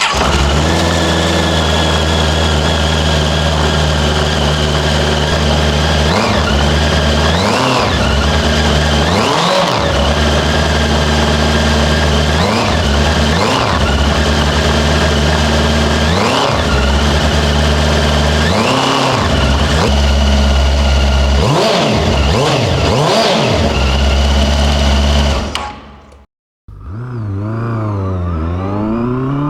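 A vehicle engine running at a steady speed, with about nine short revs rising and falling over it. It cuts off suddenly near the end, and after a brief gap another engine revs up and down repeatedly.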